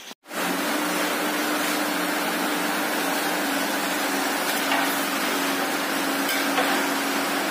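Big pot of masala chicken cooking over a coal fire: a steady, loud sizzling hiss with a low hum under it and a few faint ticks.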